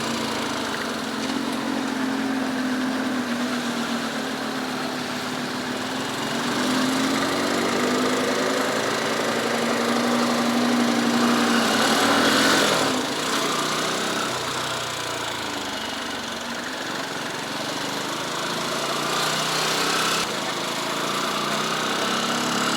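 Motorcycle engine running under way, its pitch rising and falling with the throttle, climbing for several seconds and then dropping off about halfway through, with a steady rush of wind noise.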